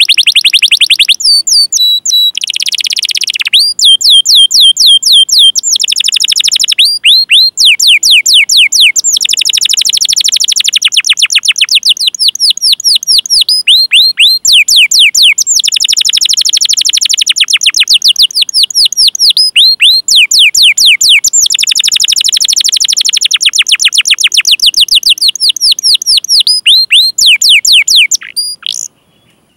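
Domestic canary singing a long, fast rolling song of 'cuit cuit' chirps: rapid runs of high, downward-sweeping notes, many a second, switching between phrases every few seconds, with a brief pause near the end.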